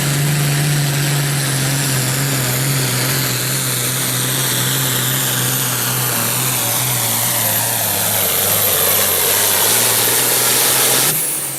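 Modified International Harvester 1066 pulling tractor's turbocharged diesel engine at full throttle, dragging the weight-transfer sled, with a high steady whine over it. Engine speed sags steadily over the later seconds as the sled loads it down, then the throttle is cut abruptly near the end.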